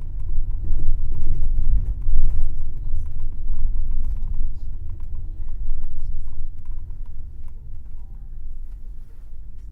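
Low rumble of an airport limousine bus's engine and road noise from inside the cabin, with faint scattered clicks and rattles. The rumble gradually quietens over the last few seconds.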